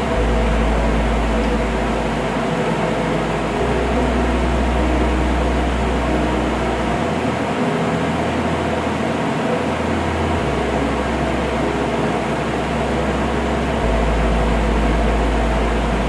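A steady hiss of blowing air, like a room fan, with background music underneath whose bass note changes about every three and a half seconds.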